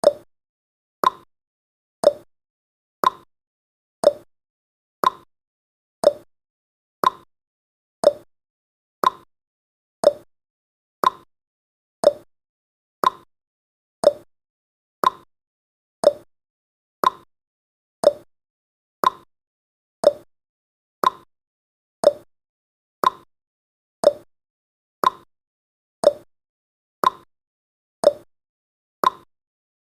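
Countdown timer's ticking sound effect: one short, sharp tick every second, steady and even, with silence between ticks.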